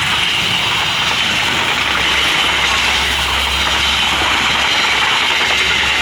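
Train passing close by: a loud, steady noise of wheels running on the rails with a low rumble under it.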